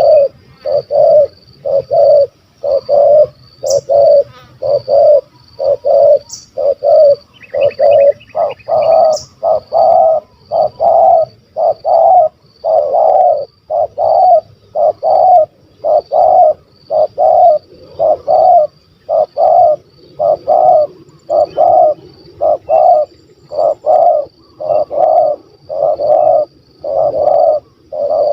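Spotted dove (tekukur) cooing over and over in a steady run of low coos, about one a second, some notes coming in quick pairs.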